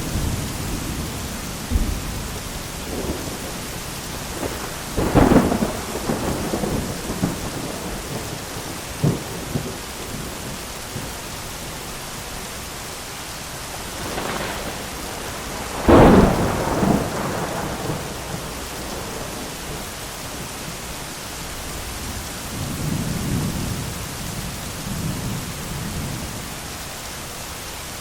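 Thunderstorm: steady heavy rain with several rolls of thunder, a sharp crack about five seconds in and the loudest clap about sixteen seconds in, trailing off into rumbling, then a lower rumble near the end.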